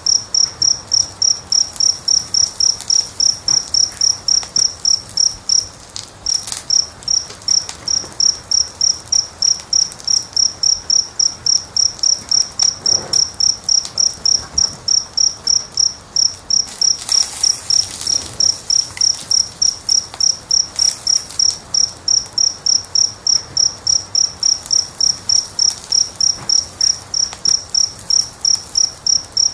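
A cricket chirping steadily at one high pitch, about three chirps a second. Under it runs the faint crackle of a wood fire, with a few louder pops.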